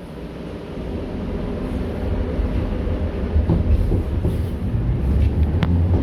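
81-717.6 metro train rumbling as it pulls away from the station and gathers speed, growing steadily louder. There is a sharp click about five and a half seconds in.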